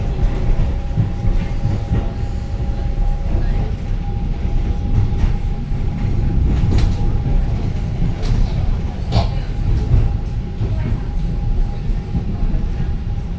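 TRA EMU900 electric multiple unit running along the track, with a steady low rumble and a steady humming tone underneath. Occasional brief clicks come from the wheels, the strongest about nine seconds in.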